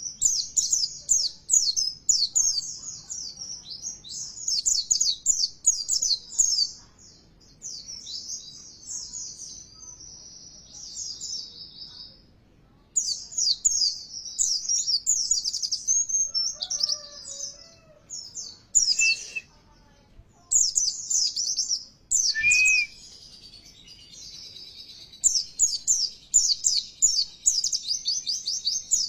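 White-eye (pleci) singing: rapid, high twittering phrases in long bursts broken by short pauses, with a couple of lower whistled notes a little over halfway through.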